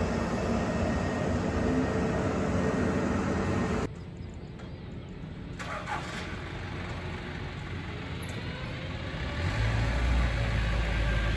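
Airbus A320neo jet engines running: a steady jet noise that cuts off abruptly about four seconds in, followed by a quieter hum and a deep low rumble building near the end.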